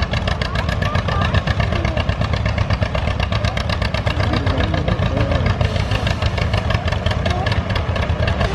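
Tractor engine idling steadily, a fast even run of firing pulses.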